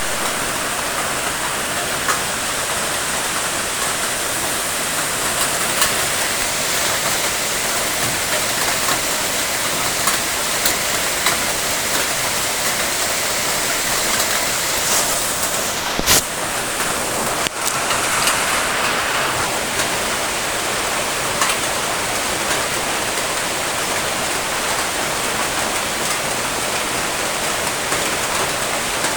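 Steady rain falling, an even hiss with scattered drop ticks and one sharper tap about 16 seconds in.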